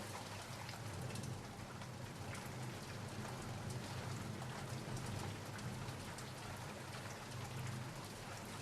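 Steady rain falling, many small drop ticks over an even hiss, with a steady low rumble beneath.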